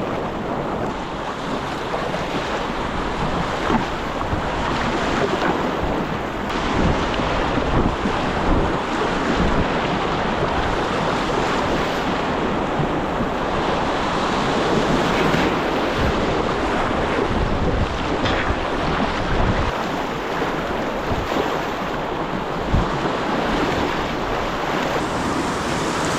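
Rushing river water, a steady noise, with wind buffeting the microphone.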